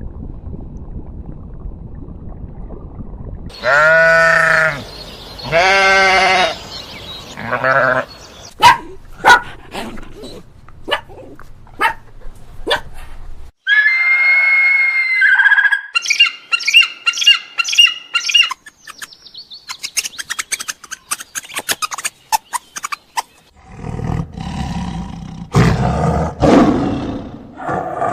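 A run of different animal calls, one after another: two long bleats about four seconds in, then scattered clicks, a high held call, a fast trill, and a loud rough call near the end.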